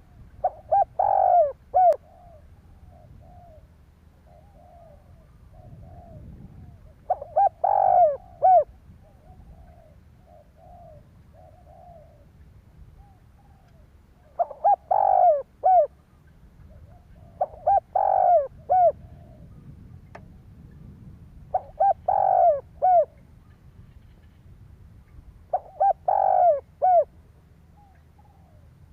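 Spotted dove cooing: six loud phrases of several coos each, a few seconds apart, with softer, quieter coos between them in the first half.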